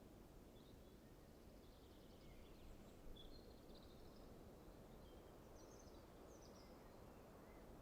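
Faint background noise with a steady low rumble, and scattered, faint high chirps and twitters of distant songbirds throughout.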